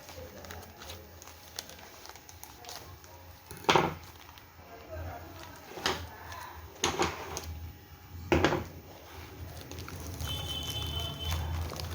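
Smartwatch retail box and its packaging being handled, with four sharp knocks and clicks against a steady low hum.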